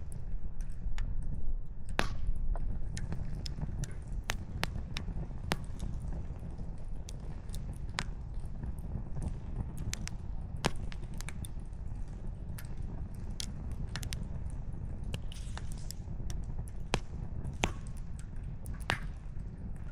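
Wood campfire crackling, with firewood giving off many sharp, irregular pops and snaps over a steady low rumble.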